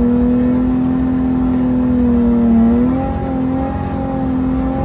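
Nissan GT-R engine held at high revs, heard from inside the cabin: a steady, strong engine note that dips and changes pitch about three seconds in as the level drops slightly.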